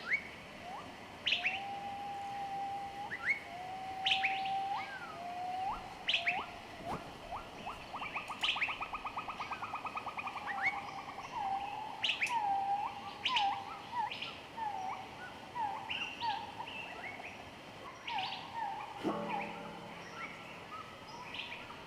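Birds chirping and whistling: short upsweeping calls and held whistled notes, with a fast trill in the middle. A low, sustained musical note enters near the end.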